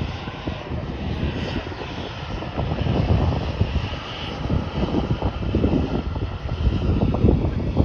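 Jet airliner's engines at takeoff power: a loud, steady rumble with irregular low crackling.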